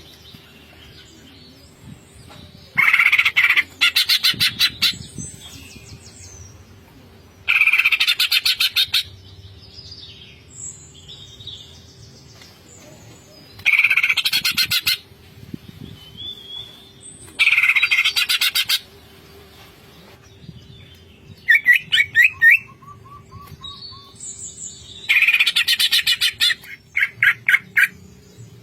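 Green leafbird (cucak ijo) singing in 'ngentrok' style: five loud bursts of rapid-fire repeated notes, each about a second and a half long and a few seconds apart, with short whistled notes between them. A faint steady hum lies underneath.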